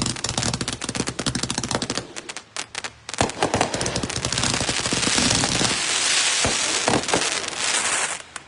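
A 172-shot 'Hippie Chick' consumer fireworks cake firing, shots going off in a rapid stream. It thins briefly about two to three seconds in, then becomes a dense, near-continuous barrage that cuts off suddenly near the end as the cake finishes.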